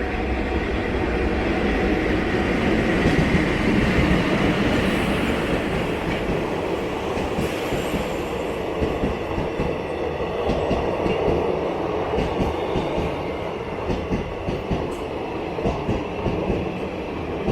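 A passenger train rolling past on the rails with a steady rumble that swells over the first few seconds. From about halfway through, the wheels click over the rail joints about once a second, some clicks coming in pairs.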